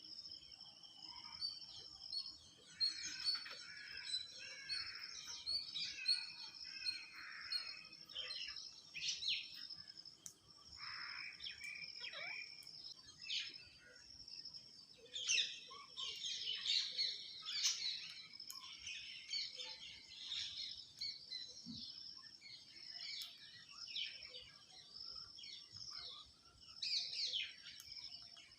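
Birds chirping and calling over and over in quick, irregular bursts, busiest a little past halfway, over a steady high-pitched insect drone.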